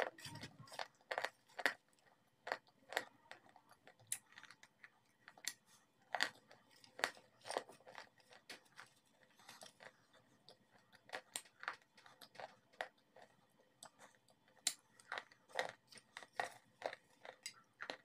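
Sharp, crisp crunches of someone biting and chewing hard, dry, white chalk-like pieces close to the microphone. They come irregularly, sometimes several in quick succession.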